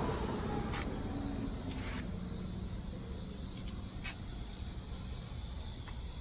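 Outdoor background noise: a steady low rumble with hiss, and a few faint clicks.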